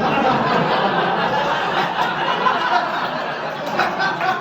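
A comedy club audience laughing together, loud and sustained, in response to a punchline.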